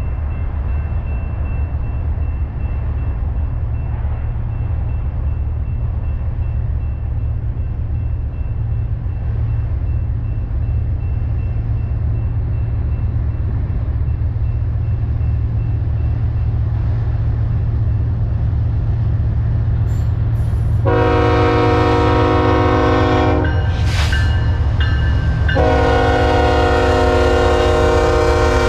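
Diesel freight locomotive approaching with a steady low rumble, then sounding its multi-tone air horn: a long blast about 21 seconds in, a short one near 24 seconds, and another long blast from about 26 seconds on.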